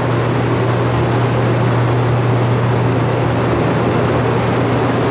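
A large fan runs steadily, giving a loud, even hum with a strong low tone under a broad rushing noise.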